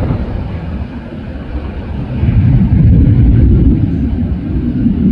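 Jet airliner engine noise, a low roar that grows louder about two seconds in.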